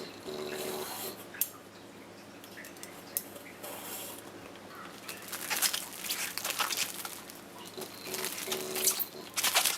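Small clicks, taps and rustling of things being handled, busier in the second half. A short, steady, low tone sounds about half a second in and again near the end.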